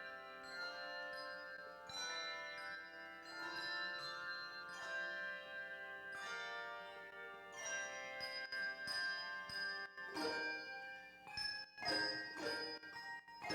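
A church handbell choir playing a piece: struck bells ringing in chords and lines, each note decaying. Near the end come shorter, clipped strikes.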